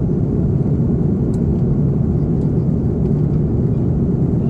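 Steady low rumble of airliner cabin noise inside an Airbus A330-300 powered by GE CF6-80 engines, even and unchanging throughout.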